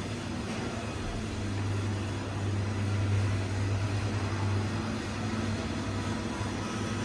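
Public-space ambience: a steady low machine hum that swells for a few seconds in the middle, over a diffuse wash of background noise.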